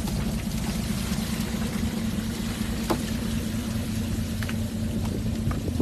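Steel fishing boat's engine running steadily: a constant low drone, with a few faint clicks and knocks over it.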